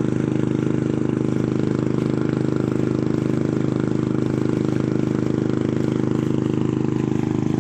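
Motorboat engine running at a steady speed with an even drone, over water and wind noise.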